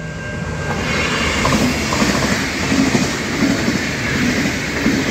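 Diesel passenger train passing at speed close by, its rush swelling over the first second. The wheels clack over the rail joints in a quick, irregular beat.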